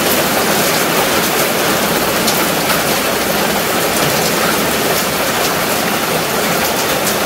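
Heavy rain falling steadily, a loud, even rush of water noise, with a few light clicks as the frame parts are fitted together.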